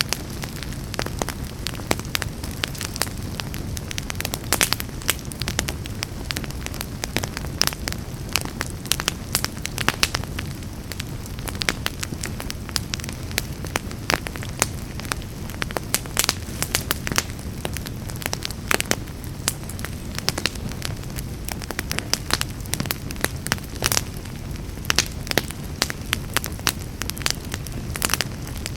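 Wood fire burning in a fireplace: a steady low rush of the flames with dense, irregular crackles and pops throughout.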